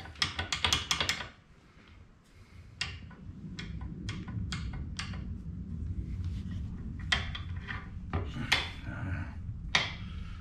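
Metal machine parts being handled: a quick run of clicks and rattles in the first second, then scattered sharp knocks and clunks over a low steady rumble.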